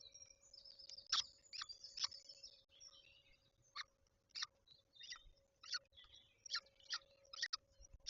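Short, sharp bird calls repeated irregularly, about once a second, with fainter twittering between them. A steady low hum runs underneath.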